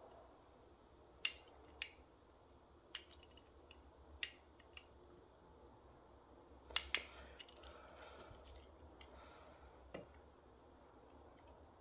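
Sharp clicks and clacks from a SIKU toy garbage truck as its parts are handled and moved, coming singly at irregular intervals. The loudest is a quick double click about seven seconds in.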